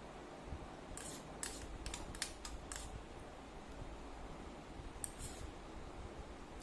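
Eating sounds: a quick run of short, crisp mouth and food noises about a second in, and another brief one around five seconds in, over a low steady hum.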